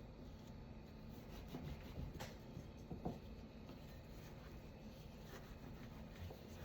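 Faint kitchen handling sounds: soft rustling and light scraping, with two light taps about two and three seconds in, over a low steady hum.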